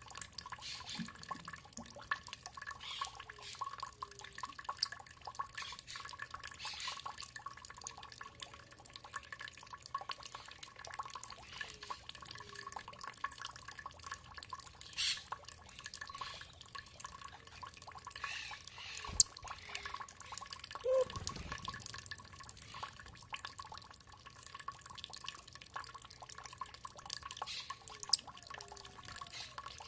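Water dripping and trickling in irregular drops, with a faint steady high tone underneath. One sharper, louder drop comes about nineteen seconds in.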